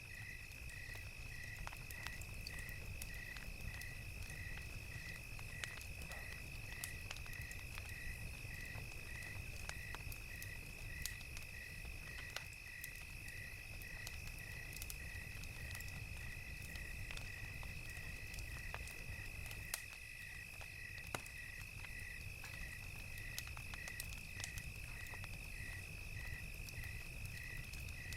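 Crickets chirping in an even, repeating pulse over a steady high insect trill, with the scattered sharp pops of a crackling wood fire and its low rumble underneath.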